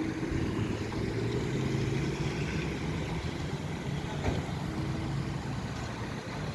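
Road traffic, with vehicle engines running steadily and a short knock about four seconds in.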